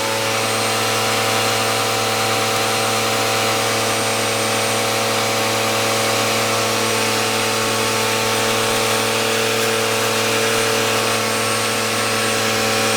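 Eureka vacuum cleaner motor running steadily at a constant pitch.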